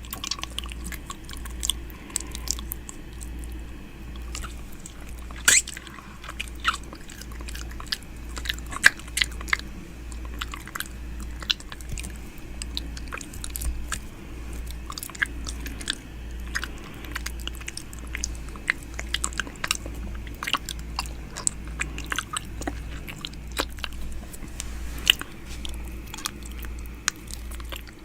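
Close-up ASMR 'ear eating' mouth sounds on an ear-shaped microphone: a dense, irregular run of sharp, wet clicks, smacks and nibbles. Underneath runs a low hum that pulses evenly.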